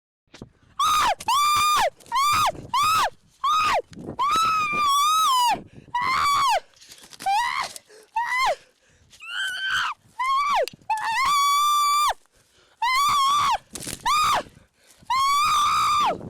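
A person screaming over and over: about fifteen loud, shrill screams, each held on one high pitch and then dropping off sharply, with short gaps between.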